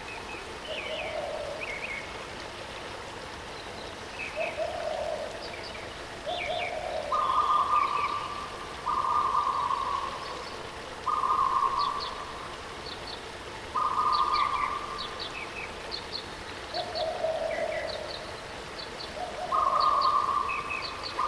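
Waterfall's steady rush of water with birds singing over it: short high chirps throughout, and a flat, lower call about a second long repeated about ten times at two pitches.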